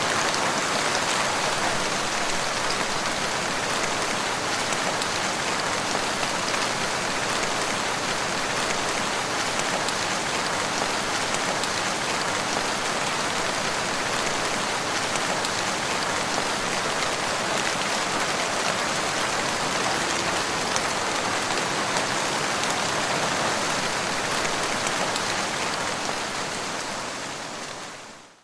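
Steady, even rain pattering on the ground, dense with small drops. It fades in at the start and fades out near the end.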